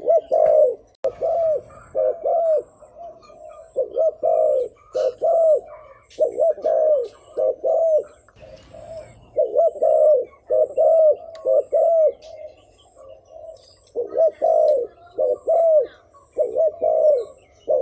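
Spotted dove cooing in the quick repeated 'thúc gù' style: short arched coo notes in clusters of two or three, over and over with brief gaps, the excited call that keepers use to lure wild doves.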